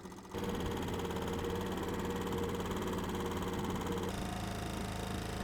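Small outboard motor running steadily, louder from about a third of a second in, its tone shifting about four seconds in.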